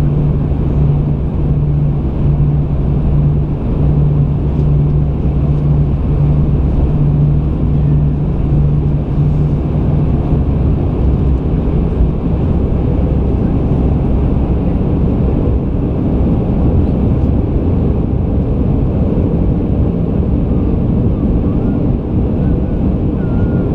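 Airbus A320 airliner heard from inside the cabin in flight: the steady roar of engines and airflow. A low hum pulses evenly for about the first ten seconds, then fades into the roar.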